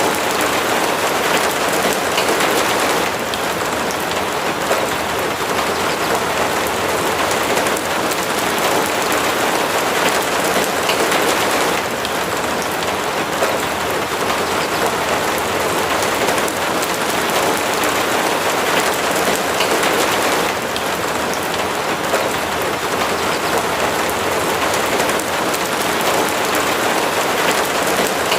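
Steady heavy rain falling, a dense even patter of drops on a roof and surfaces that swells and eases slightly every few seconds.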